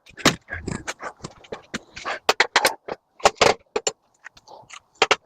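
Aluminum window trim being pried and popped off a screen door: an irregular run of sharp metal clicks, clinks and scrapes, with a louder cluster about halfway through.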